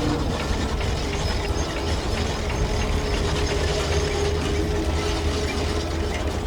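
Steady mechanical rattling and clattering over a low engine hum, like a heavy construction machine at work; it cuts off suddenly at the end.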